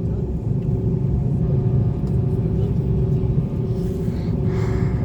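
Steady low rumble and hum of an airliner cabin on the ground before takeoff, with the engines running.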